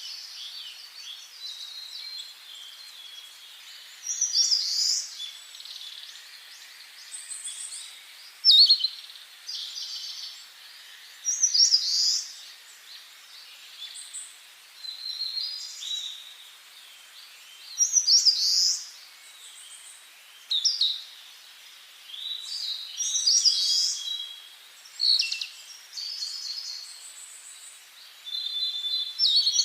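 Wild birds singing: loud, high, short song phrases come every few seconds, with quieter chirping from other birds between them.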